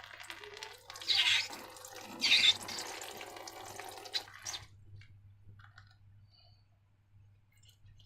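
Wet slime mixture squelching and trickling, with two louder wet spurts about one and two and a half seconds in. It stops about four and a half seconds in, leaving only a few faint clicks.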